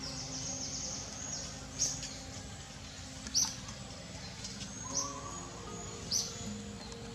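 A bird's short high chirps, each falling in pitch, repeated about every second and a half, over soft background music with long held low notes.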